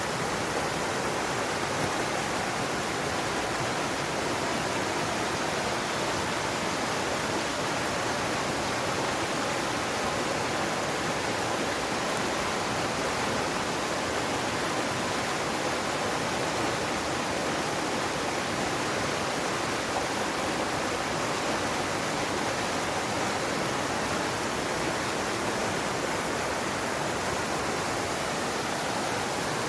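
Mountain valley stream rushing steadily over rocks, a constant even wash of water.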